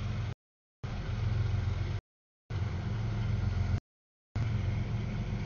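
Double-stack container freight train rolling past: a steady low rumble of wheels on rail. Three times the sound cuts out abruptly for about half a second, which is the audio feed dropping out.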